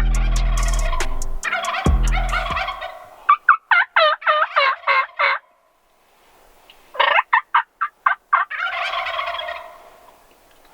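Wild turkeys calling: a run of about eight quick yelps, then a shorter run of yelps. Each run is answered by a rattling gobble near the end, with another gobble about two seconds in.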